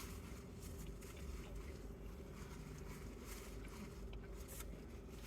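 Steady low hum inside a car with its air conditioning running, with faint scattered clicks.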